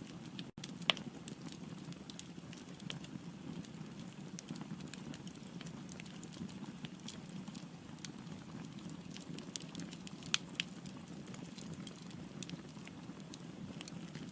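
Firewood burning in a fireplace: a steady low rush of flame under frequent small crackles and snaps, with a few louder pops about a second in and twice around ten seconds.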